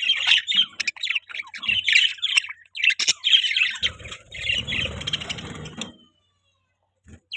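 Budgies chirping and chattering in a quick, busy stream of short high calls that stops about six seconds in. A rustling noise runs under the calls in their second half.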